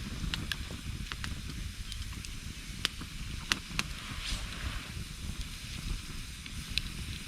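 Wood campfire of gathered branches and driftwood burning, with sharp crackles and pops at irregular moments over a steady hiss and low rumble; the loudest pop comes about halfway through.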